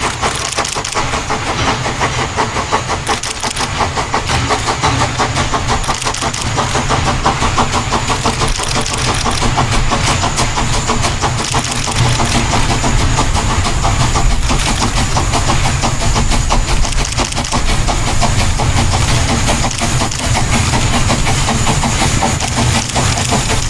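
Steam locomotive running, a steady fast mechanical pulsing that grows gradually louder over the first half and then holds.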